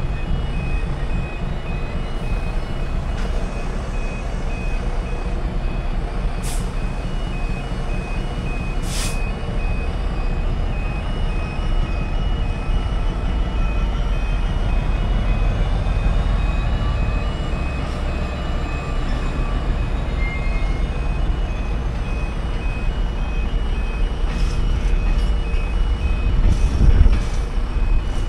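A diesel-hauled freight train rumbling and clattering steadily across a level crossing, with a couple of short clanks from the wagons. Over it the crossing's audible warning alarm beeps in a steady repeating high-pitched pattern.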